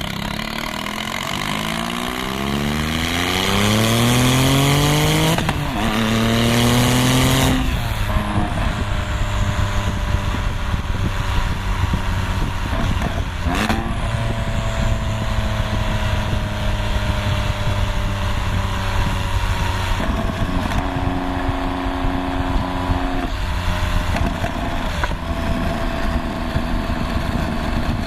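Straight-piped exhaust of a 2001 Porsche 996 911 Turbo's twin-turbo flat-six, revved while stationary. The pitch rises in two pulls over the first several seconds, then settles to a steady idle, with a quick blip midway and a brief held rev later on.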